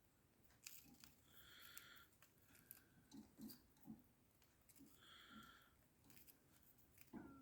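Mostly near silence, with two faint bird calls, one about a second and a half in and one about five seconds in, and a few soft taps between them.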